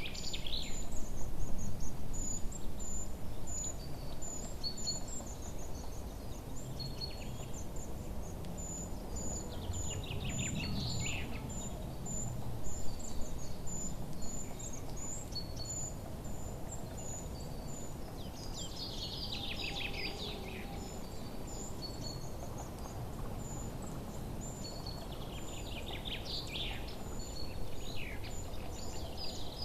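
Songbirds chirping: a steady run of very short, high chirps, with a trilled song phrase falling in pitch about every eight to ten seconds, over a constant low background rumble.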